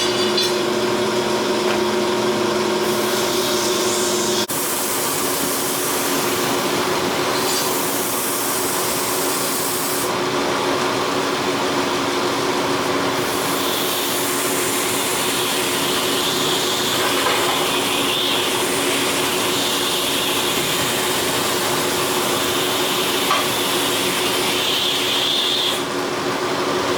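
A steady machine running, a hum under an even rushing noise, with a sudden change in its sound about four and a half seconds in.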